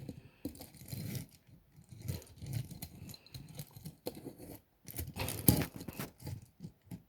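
Irregular rustling, clicks and knocks of objects being handled, with a louder cluster of knocks about five seconds in.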